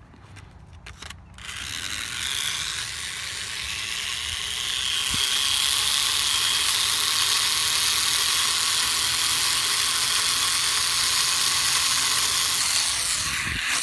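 An Air Hogs E-Charger micro plane's little electric motor and propeller whirring steadily for about twelve seconds. It is preceded by a few sharp clicks and drops away near the end.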